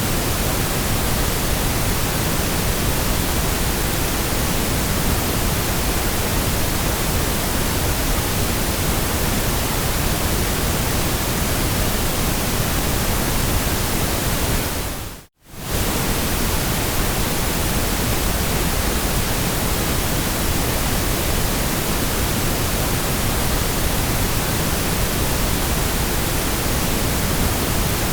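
Steady, even white-noise hiss across the whole range of pitch, fading out to near silence and straight back in for about half a second around the middle.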